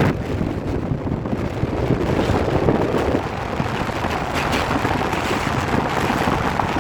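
Black Diamond Express passenger train running across a railway bridge: a steady, loud rumble of wheels on the rails, with a rattling clatter.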